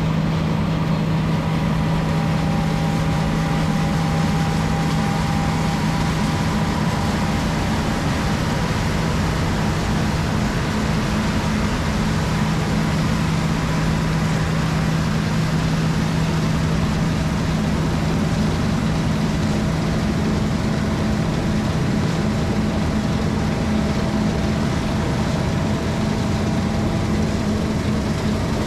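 Heavy diesel harvest machinery running steadily, a constant low hum over a dense mechanical noise that does not change.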